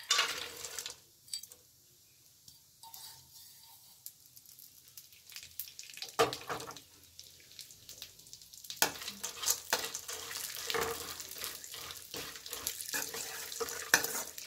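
Sliced almonds tipped with a rattle into a kadhai of hot ghee, then frying: a faint sizzle that builds into a steady crackle over the following seconds.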